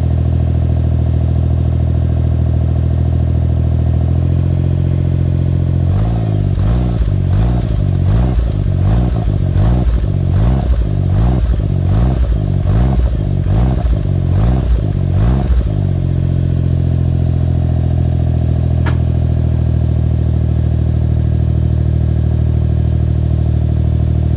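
Suzuki Lapin SS (HE21S) turbo three-cylinder engine breathing through a motorcycle muffler on an exhaust that is straight from the mid-pipe back, catalyst kept. It idles steadily, is blipped about a dozen times in quick succession less than a second apart, then settles back to idle.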